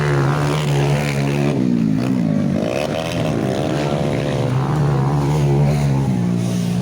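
Motocross bike engines running hard, their pitch dropping and climbing as the riders back off and open the throttle. More than one engine can be heard at once.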